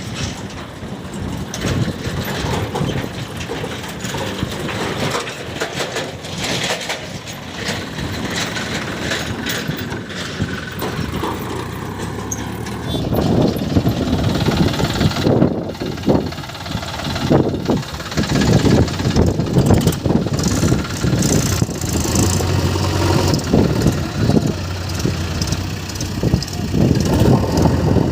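Heavy diesel machinery running: a backhoe loader working beside a tractor. It steps up louder about halfway through, with frequent short knocks and clatter over the engine sound.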